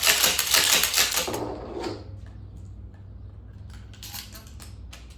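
Shotgun shells being quad-loaded and pushed into a shotgun's magazine tube: a quick run of metallic clicking and rattling, loudest in the first two seconds, then a few faint clicks near the end.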